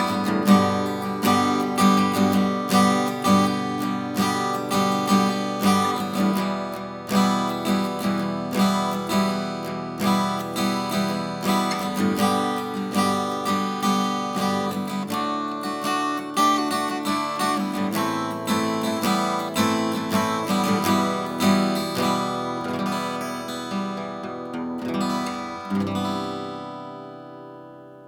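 Steel-string acoustic guitar, a 1977 Takamine TW60 Elite with rosewood back and sides, strummed and picked in a steady rhythm of chords, about two strokes a second. It changes chord about halfway through and ends on a chord left to ring and fade away.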